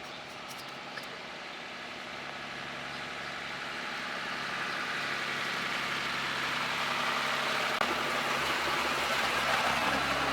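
A motor vehicle's engine running steadily, gradually getting louder over the whole stretch.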